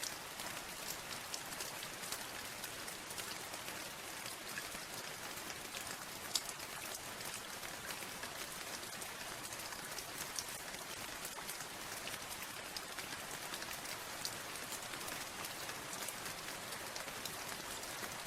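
Steady rain with individual drops ticking sharply, one louder drop about six seconds in.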